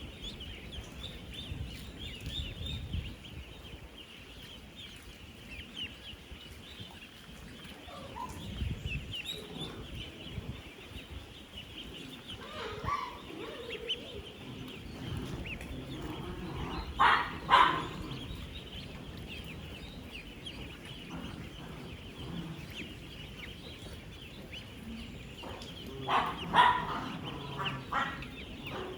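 Dense, continuous peeping chorus of thousands of ten-day-old ducklings, with a few louder, lower calls standing out about halfway through and again near the end.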